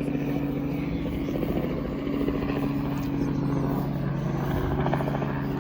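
An engine running steadily, with a low hum under it and a pulsing texture that swells briefly twice.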